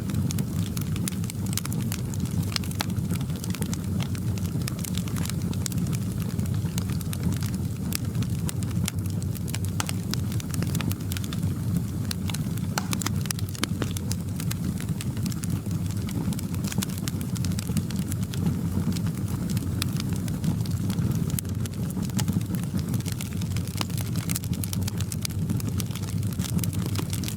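Wood fire crackling in a fireplace: frequent small irregular pops and snaps over a steady low rumble of the flames.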